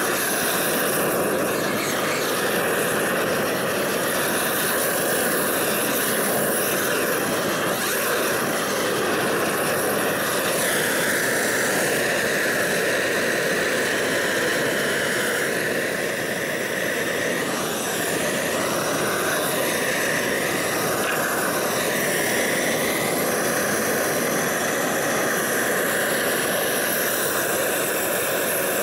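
Homemade propane roofing torch running with a steady hiss, heating torch-on bitumen roofing felt to fuse it down, with a faint steady whistle-like tone under the noise.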